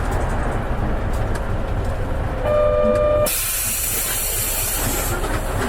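Interior sound of an Isuzu Erga KL-LV280N1 city bus: a steady low engine and road rumble. About two and a half seconds in comes a short electronic beep, then a sharp hiss of compressed air lasting nearly two seconds.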